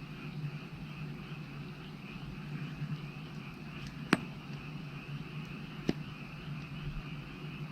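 Wood fire burning, with two sharp pops from the logs about four and six seconds in, over a steady background chorus of frogs calling.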